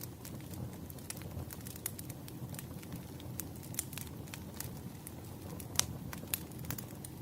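Wood fire crackling in a fireplace: irregular sharp pops and snaps over a low steady rumble, with one louder pop a little before six seconds in.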